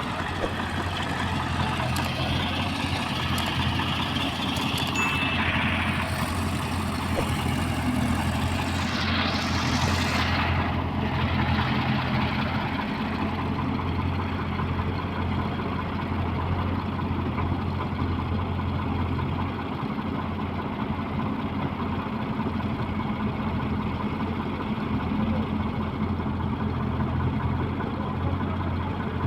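Heavy diesel engine running steadily with a constant low hum, with a brief rising and falling hiss about ten seconds in.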